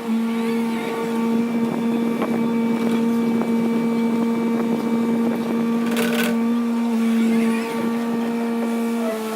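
Hyundai HW60 wheeled excavator running at a steady drone, with one brief clank about six seconds in.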